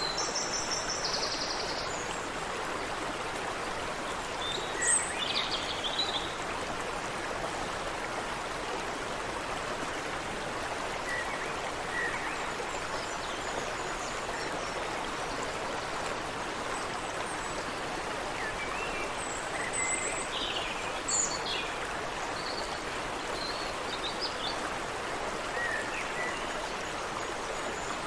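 Creek water running steadily, with scattered short bird chirps and calls over it, a few of them together about five seconds in and again around twenty seconds in.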